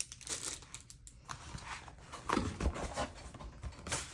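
Rustling and light clicks of paper packaging being handled and opened, with a soft thud about two and a half seconds in.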